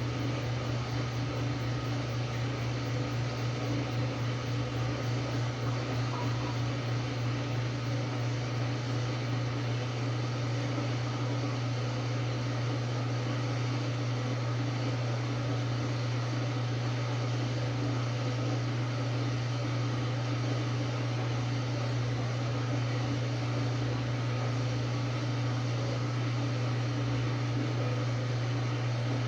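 Samsung top-load impeller washing machine running steadily with a constant low motor hum and no stop-start agitation, as in the drum spinning near the end of a Quick Wash cycle.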